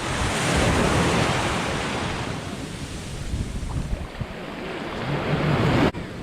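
Sea surf breaking and washing up the shore, with wind on the microphone. The waves surge louder at the start and again near the end.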